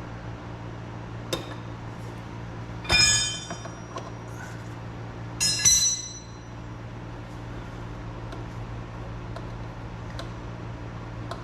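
Metal wrenches clinking and ringing as they are handled: a light tap about a second in, then two louder clinks near three and six seconds in, over a steady low hum.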